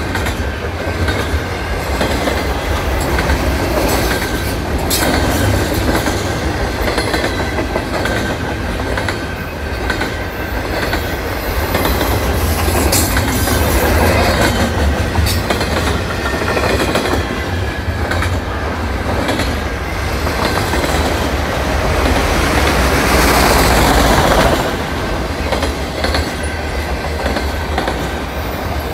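Double-stack container well cars and autorack cars of a freight train rolling past: a steady rumble of steel wheels on rail with scattered clicks over the rail joints and a faint, thin, steady wheel squeal. It swells briefly louder near the end.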